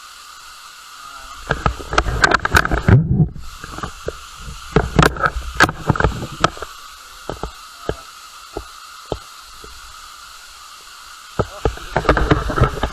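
Steady rushing hiss of a waterfall, broken by clusters of loud close knocks and deep rumbles, with scattered single knocks in between.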